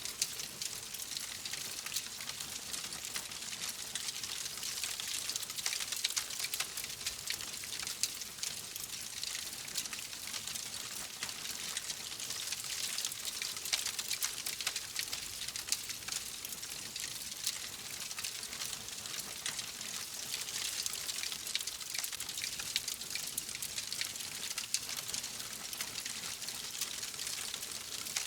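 Wood fire crackling in a fireplace: a steady hiss with many small, sharp, irregular pops and snaps.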